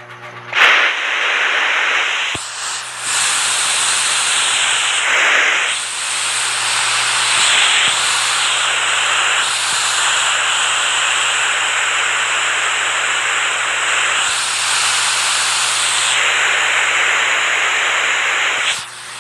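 Rushing water as a steady, dense hiss that starts abruptly about half a second in and falls away just before the end, with a faint low hum beneath it.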